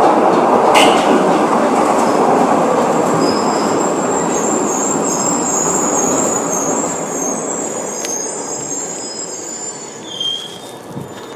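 Glasgow Subway train running, with a loud rumble that fades steadily as it slows and high-pitched wheel squeal over the middle of the stretch. A sharp click sounds about a second in.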